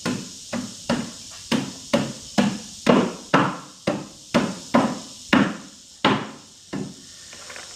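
Wooden parts of a chicken coop's egg box being knocked together into place: a run of about fourteen sharp wooden knocks, roughly two a second, each ringing briefly, slowing and stopping near the end.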